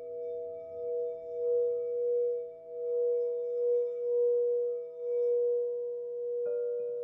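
Crystal singing bowls ringing in several sustained, overlapping tones, the strongest swelling and fading in slow pulses. Another bowl is struck shortly before the end, adding a new, slightly higher tone.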